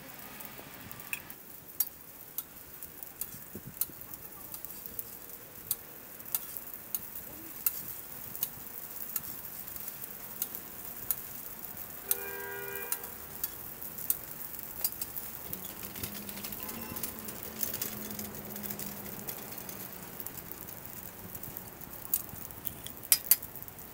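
Hotteok (Korean sweet pancakes) sizzling as they fry in oil on a flat steel griddle, with frequent sharp clicks of metal tongs against the griddle.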